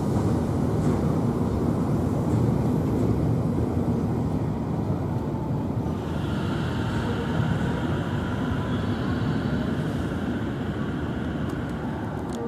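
Train running on the rails: a steady low rumble of wheels and motors, with a higher whine joining about halfway through.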